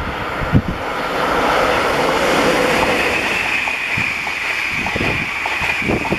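Express passenger train passing at speed: a loud, steady rush of wheel and air noise that builds over the first second or so, with a high steady tone joining it midway. Low thumps of wind on the microphone.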